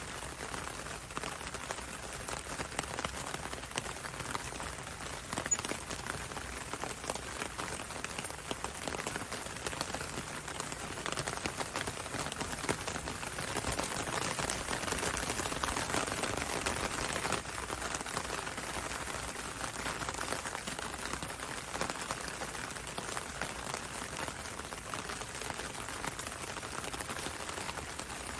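Gentle steady rain falling on a window and a road, a continuous hiss dotted with many small drop ticks. It grows a little louder about halfway through, then settles again.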